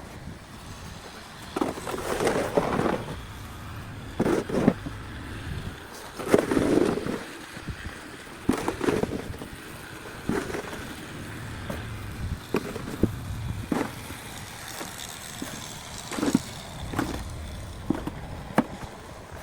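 Snow shovel scraping and digging through deep snow in irregular strokes every one to two seconds, with sharp knocks of the blade.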